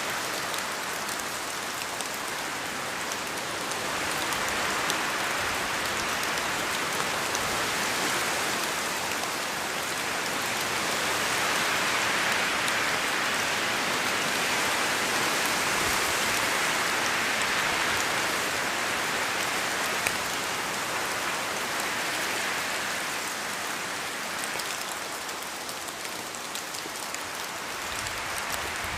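Steady rain falling, a dense hiss of drops pattering on a surface, swelling a little and easing again over the stretch.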